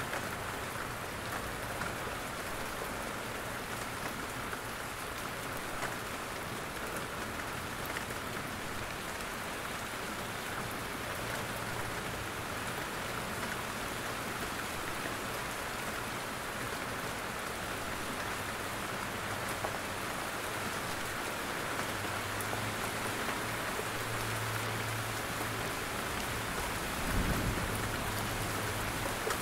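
Steady rain falling in a forest, drops pattering off the trees. A short low rumble breaks in near the end.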